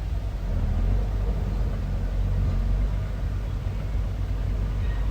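Bulldozer's diesel engine running steadily with a low rumble.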